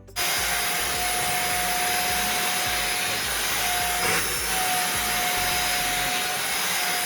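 AGARO vacuum cleaner starting abruptly and running steadily, a rush of air with a high whine on top; the whine dips briefly in pitch about four seconds in.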